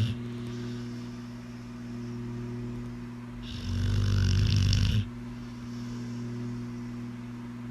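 Pit bull snoring in its sleep: one loud snore about three and a half seconds in, lasting about a second and a half, between quieter snoring breaths.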